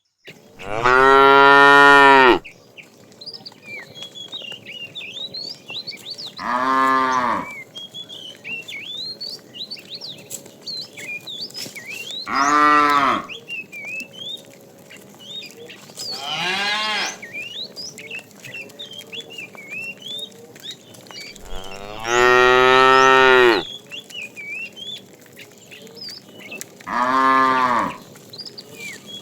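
Cattle mooing: six loud, long moos a few seconds apart, the longest about two seconds. Faint high chirps come in between.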